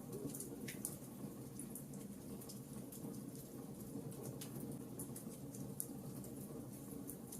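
Wood fire burning: a steady low rush of flames with scattered sharp crackles and pops from the burning wood.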